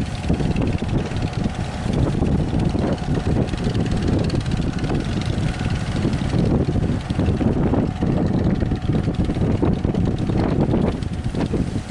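Strong wind buffeting the microphone in gusts, with the engines of boats heading out to sea running underneath as a faint steady drone.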